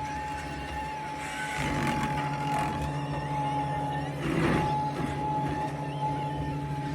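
Skid steer running with its hydraulic direct-drive brush-cutter mower spinning: a steady low hum under a thin, steady high whine, with a brief swell about four and a half seconds in.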